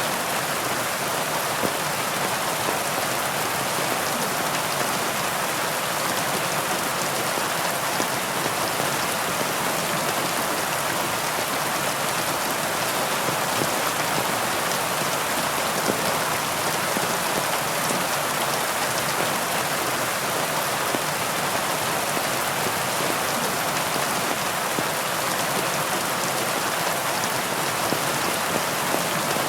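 Heavy rain falling steadily, a dense even hiss of drops with fine pattering, no thunder or change in strength.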